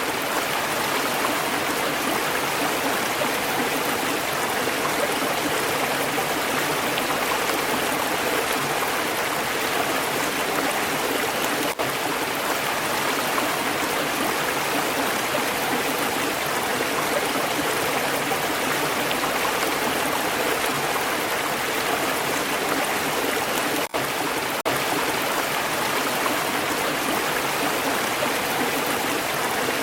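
Flowing stream: water rushing and burbling over stones in a steady, even wash, broken twice by a momentary dropout.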